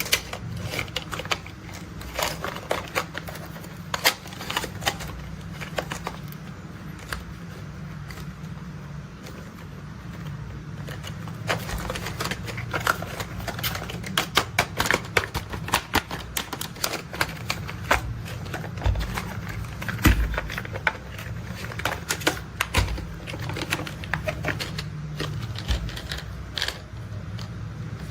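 Plastic toy construction vehicles being handled: a dense run of irregular small clicks and rattles, over a steady low hum.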